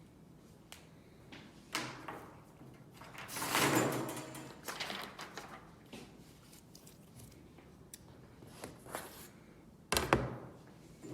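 Drawing tools being handled on a drawing board: scattered light taps, a sliding rustle about three to four seconds in, and a sharp knock about ten seconds in.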